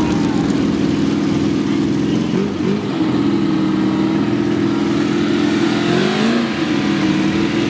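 Truck engines running hard at high revs under load, as in a truck tug-of-war. The engine speed briefly dips and climbs back twice.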